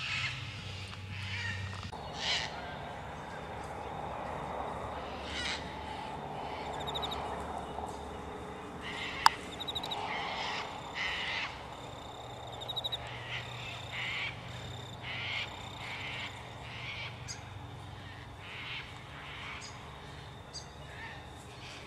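Bird calls: a series of short calls repeated at irregular intervals, with a sharp click about nine seconds in.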